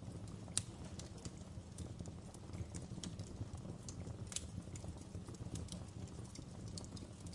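Wood fire crackling in a fireplace: irregular sharp pops and snaps over a low, steady rumble of burning, with the loudest pops about half a second in and around four and a half seconds in.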